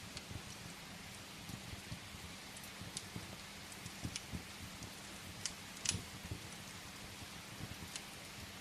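Steady rain hiss with scattered sharp crackles and pops of a wood fire burning in a fireplace, the loudest pop about two-thirds of the way through.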